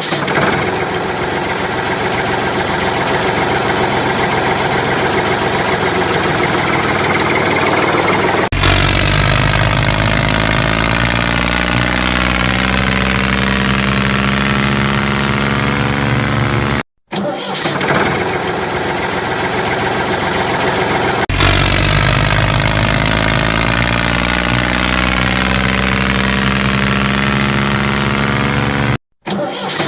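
An engine running and revving, its pitch rising and falling, in several edited stretches with sudden cuts and two brief silent gaps.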